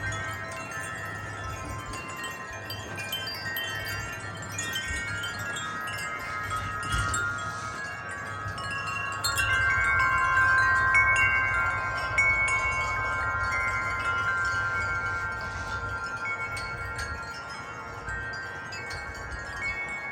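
Wind chimes ringing in gusty wind, many overlapping tones, swelling louder about nine seconds in as a gust hits and then slowly settling. A low wind rumble sits underneath.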